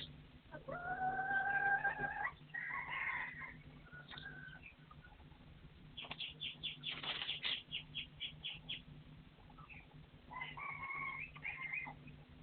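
Wild game birds calling: a long drawn-out crowing call starting about half a second in, a shorter call straight after it, then a quick run of clucking notes from about six seconds, and another short call near the end.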